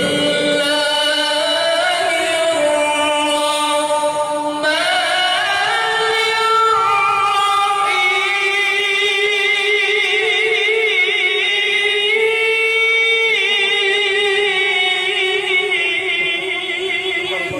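A qari's solo voice reciting the Quran in melodic tilawah style, holding long ornamented notes with wavering pitch. The voice climbs to a higher register about five seconds in.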